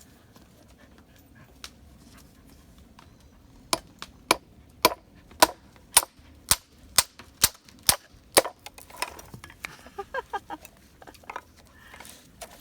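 A row of about ten sharp knocks, roughly two a second, then lighter, quicker clicks: a blade being struck into bamboo to split and shape it into chopsticks.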